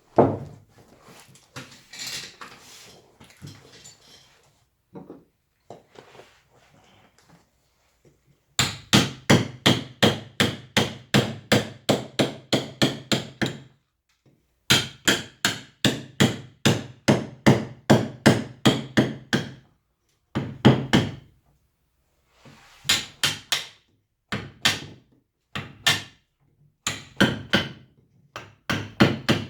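Wood carving with a mallet and chisel: a knock, a few seconds of quieter cutting and scraping, then runs of sharp, even mallet blows on the chisel, about three a second, with short breaks. Each blow drives the blade into the wood.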